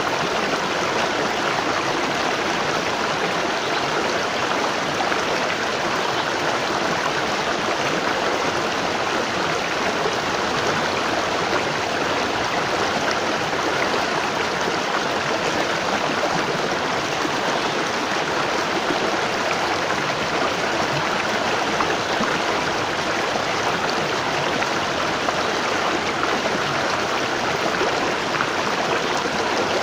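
Waterfall: water falling and rushing steadily as a dense, even roar of noise.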